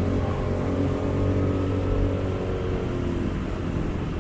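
Motorcycle engine running steadily under way, its pitch holding fairly even.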